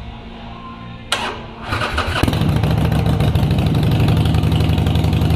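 Motorcycle engine being started on its electric starter: it cranks briefly from about a second in, catches just over two seconds in, and settles into a steady idle.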